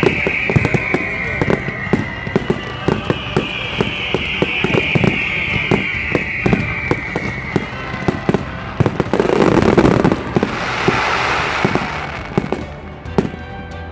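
Fireworks display with many rapid bangs and crackles and two long whistles falling in pitch. A louder burst comes about nine seconds in, followed by a couple of seconds of crackling.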